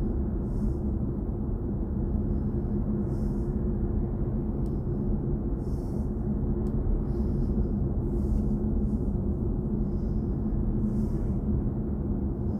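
Cabin noise of a BMW i4 M50 electric car on the move: a steady low road and tyre rumble with a steady low hum, and no engine sound.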